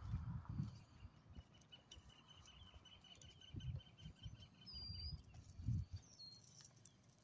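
A small songbird trills: a rapid, even run of high notes lasting about four seconds, with a few short, higher chirps near the end. Irregular low thumps sound underneath.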